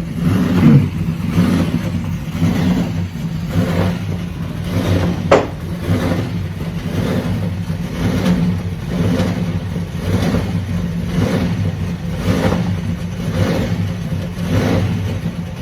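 Muscle car engine running with a steady low note that swells in regular pulses about once a second, with a single sharp click a little over five seconds in.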